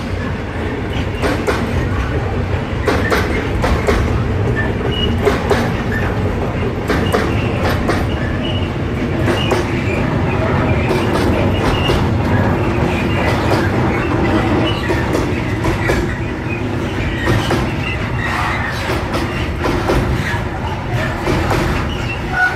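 Intermodal freight train's container flat wagons rolling past slowly, steel wheels clicking over the rail joints again and again above a steady low rumble.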